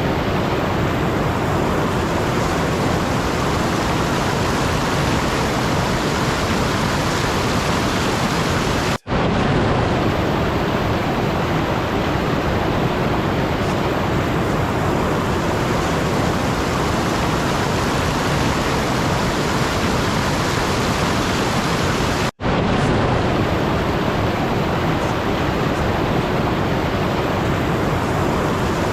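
Loud, steady, even hiss spread from deep to high pitches, with no tones or rhythm. It cuts out for an instant twice, about nine seconds in and again about twenty-two seconds in.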